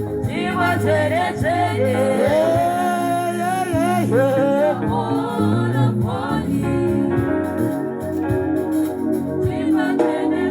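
Gospel worship song: a solo voice sings a wavering, drawn-out melody over sustained electronic organ chords. The voice drops out about seven seconds in, leaving the organ chords held.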